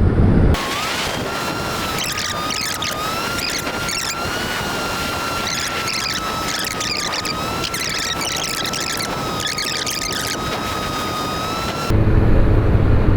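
Heavy wind rush with a steady high whine, as from a sport motorcycle ridden at a constant speed; the sound cuts in abruptly just after the start and cuts off near the end.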